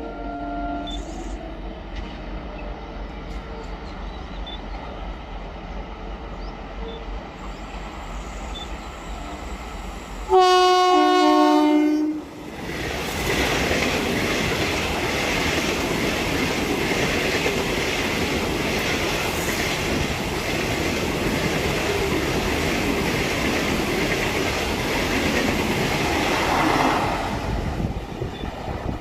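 A train's low steady rumble, then its horn sounds once for about two seconds, dropping slightly in pitch near its end; this is the loudest sound. Then the steady noise of the train rolling on the rails follows, with clickety-clack, and eases off near the end.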